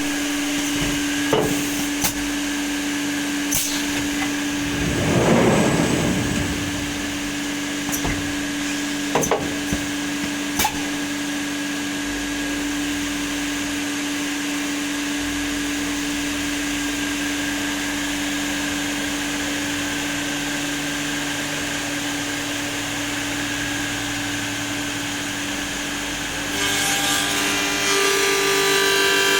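Hundegger K2 timber-joinery CNC machining centre running with a steady hum, with scattered sharp clicks and knocks and a brief swell of noise about five seconds in. Near the end it grows louder and a whining, multi-toned note joins in.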